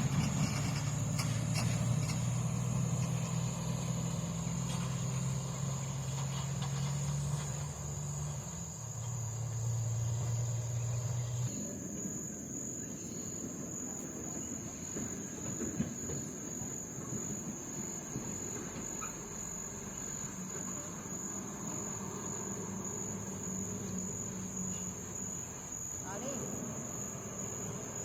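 Scania truck's diesel engine running steadily, its note dropping about eight seconds in and turning rougher and noisier from about eleven seconds in. A steady high-pitched tone sits over it throughout.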